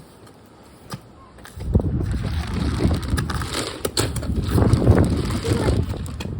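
A strong wind gust buffeting the microphone, starting about a second and a half in as a loud, rough, low rumble with scattered knocks.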